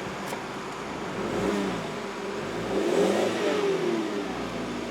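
2004 Volkswagen Beetle engine running, revved once about halfway through: the pitch rises and then falls back.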